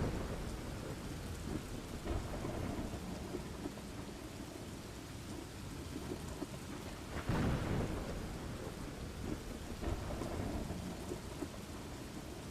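Steady rain with a continuous low thunder rumble; a louder swell of thunder comes about seven and a half seconds in.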